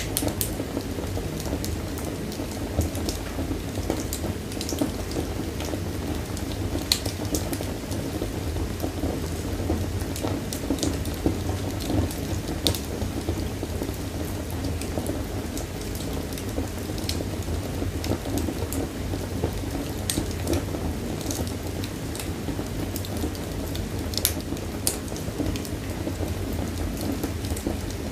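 Wood fire burning in a fireplace: a steady low rush of flames with scattered, irregular sharp crackles and pops.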